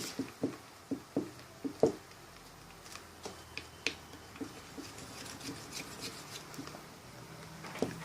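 Glue and glitter being stirred in a bowl for slime, with the utensil tapping and clicking against the bowl. There is a quick run of sharp taps in the first two seconds, then lighter, scattered ticks.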